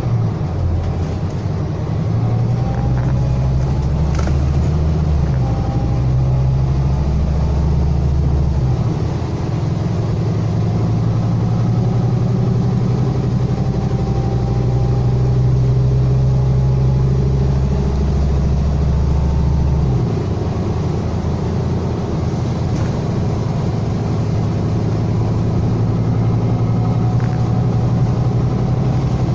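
Scania K320 bus's 9.3-litre five-cylinder DC9 diesel engine running under way, heard on board: a strong low engine note that changes in steps a few times, with a faint whine rising higher up.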